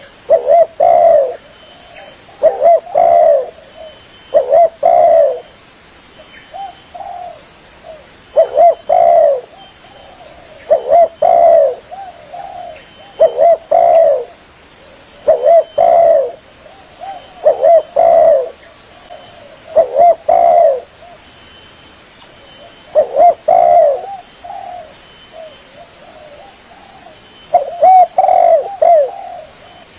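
Spotted dove (tekukur) cooing: loud phrases of two or three low coos repeated about every two seconds, with a couple of longer pauses late on.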